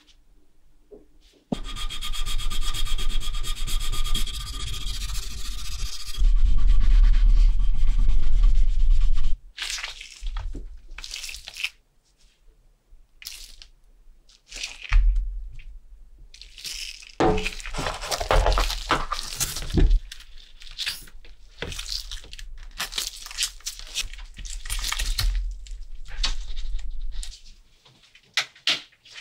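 A small electric tool motor runs steadily for about eight seconds, louder in its last few seconds, then stops suddenly. It is followed by irregular rubbing and scrubbing strokes, as of brushing or polishing a small metal part by hand.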